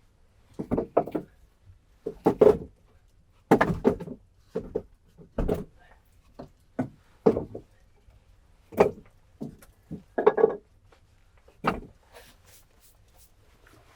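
A series of irregular wooden knocks and clunks, about a dozen or more at uneven spacing, like pieces of wood being handled and set down, stopping about twelve seconds in.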